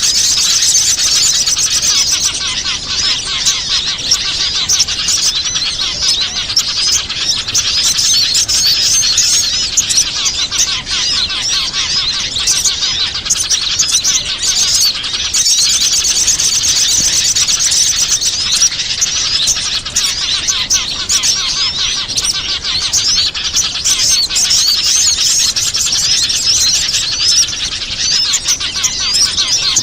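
Dense chorus of many small wild birds chirping and twittering in fast, overlapping calls, a bird-lure (pikat) recording played to draw in wild birds. It breaks off for a moment about halfway through.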